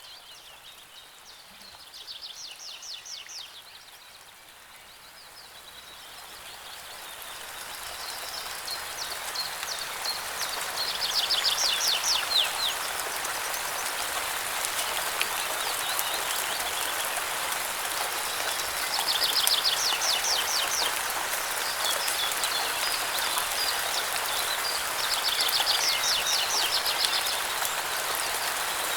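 Steady rain that grows louder over the first ten seconds or so, while a small songbird sings a short, fast trill of high notes four times.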